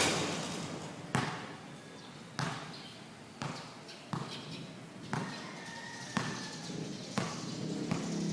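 Basketball bouncing on a court, dribbled at a slow pace of roughly one bounce a second, the first bounce the loudest.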